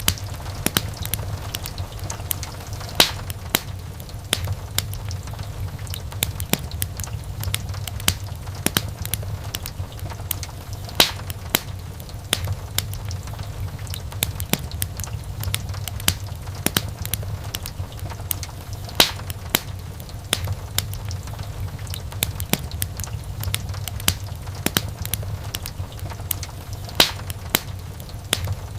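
Wood fire crackling in a fireplace: a steady low rumble of flames under dense small crackles, with a louder pop about every eight seconds.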